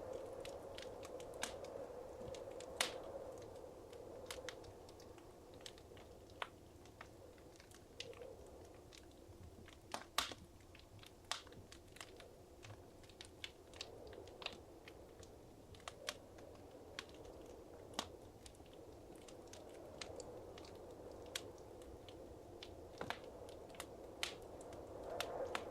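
Wood fire crackling in a fireplace: irregular sharp pops and snaps, a few a second, over a soft low rush of flame that swells and fades.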